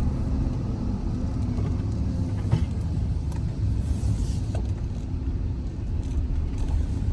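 Van driving: a steady low rumble of engine and road noise, with a few faint knocks.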